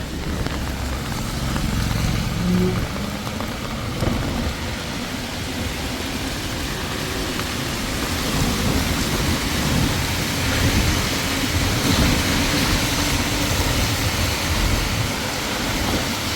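Vehicles passing on a wet road in rain: engine rumble and tyre hiss on wet pavement mixed with falling rain. The hiss grows louder about eight seconds in.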